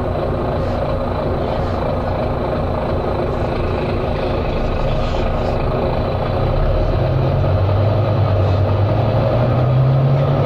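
Volvo B9TL double-decker bus's diesel engine heard from inside the bus, working under load. About two-thirds of the way through, its pitch rises and it grows louder as the bus accelerates.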